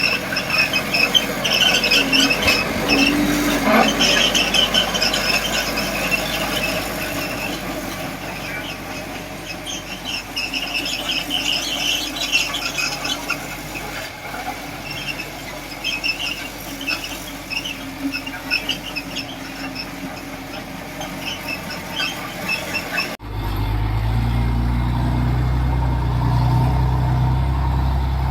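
Small crawler bulldozer (Komatsu D20P) squealing and squeaking in repeated high-pitched bursts as it works, the sound typical of steel track links and rollers. About 23 seconds in, the sound cuts abruptly to a steady, low diesel engine drone.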